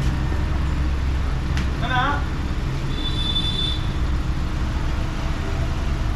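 A car engine idling with a steady low hum. A short warbling chirp comes about two seconds in, and a brief high-pitched beep follows about a second later.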